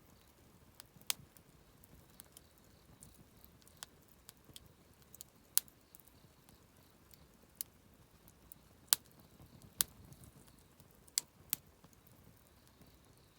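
Wood campfire crackling: irregular sharp pops and snaps, a dozen or so, the loudest a little past the middle, over a faint low rush.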